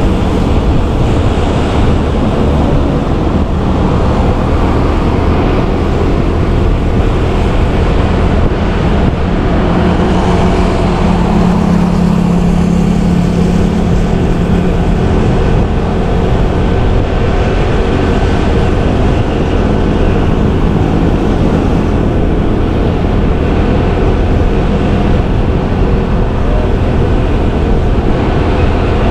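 Motorbike ride through city traffic: the bike's engine running under steady road and wind rumble, with a stronger engine drone for a few seconds near the middle.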